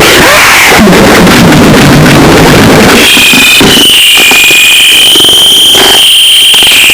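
Harsh noise music: a wall of heavily distorted, clipped noise with a low rumble. About three seconds in it turns to a shrill, steady high whine over choppy, stuttering noise.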